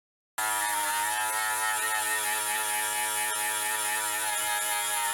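Small mini grinder with a wire brush running at a steady high speed, scrubbing rust off a steel oil pan. It starts abruptly about half a second in with an even whine and a high hiss.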